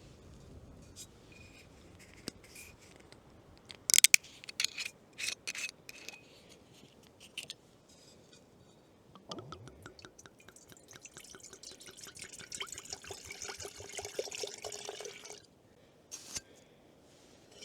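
A few sharp clinks of cookware, then liquid poured steadily into a cup or pot for about six seconds, stopping suddenly.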